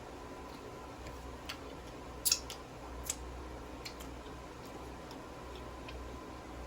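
Eating sounds: a handful of short, sharp mouth clicks and smacks, the strongest a little over two and three seconds in, over a steady low hum.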